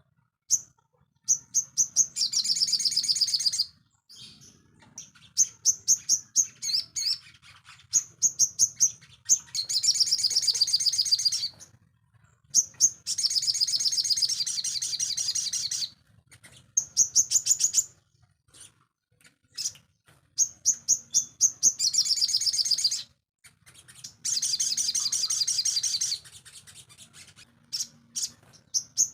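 Sogon songbird singing in a repeating phrase: a run of sharp, high chips that leads into a long, high, buzzy trill of about two seconds. The phrase comes round every few seconds.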